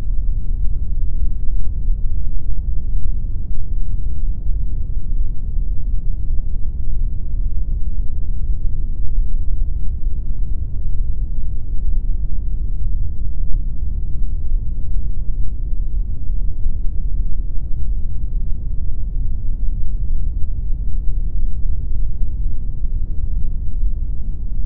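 Steady synthetic pink noise: an even, unbroken hiss, heaviest in the deep bass, with little treble.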